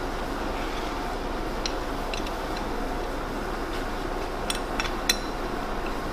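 Metal lathe running while it machines a steel shaft: a steady machine noise with a few short, light clicks scattered through it.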